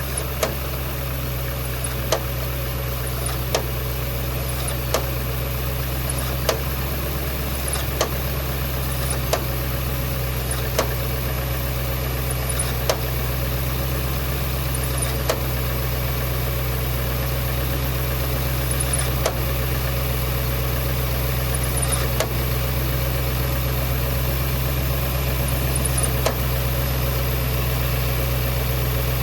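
Jaguar XK (X150) V8 idling steadily, with a sharp click sounding over it about every one and a half seconds at first and at longer, uneven gaps later: the strange noise the owner is trying to trace.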